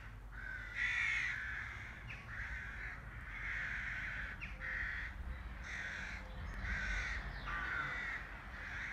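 A bird calling over and over in harsh, rasping calls, about one a second, over a low steady background rumble.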